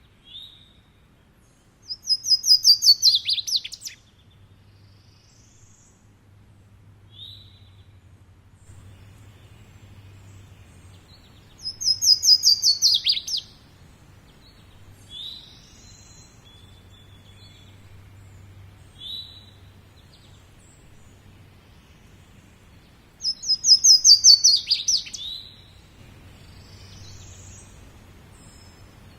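A songbird singing three loud phrases about ten seconds apart, each a quick run of high notes ending in a falling flourish, with short single high calls in between. A faint low hum runs underneath.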